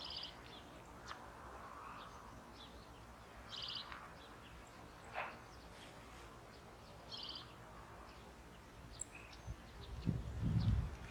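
Small songbirds chirping faintly outdoors: a short high call of quick repeated notes comes back about every three and a half seconds, with scattered single chirps in between. A low bump near the end.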